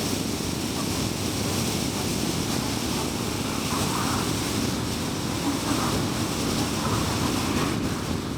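Steady road and wind noise of a car driving at highway speed: an even rush of tyres on the road and air over the car.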